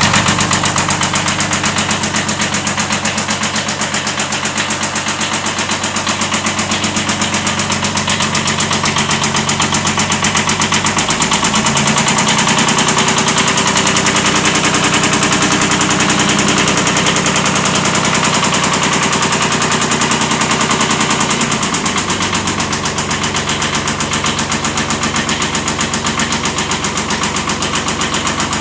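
Kubota B7100 tractor's three-cylinder diesel engine running, brought up from idle to a higher speed about eleven seconds in and back down to idle about ten seconds later. It carries a steady knocking that the owner takes for a slight rod knock.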